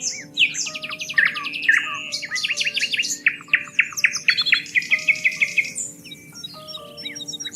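Several birds singing at once: quick chirps, fast rattling trills and short downward-sweeping whistles, one after another. Under them runs soft music of long held notes.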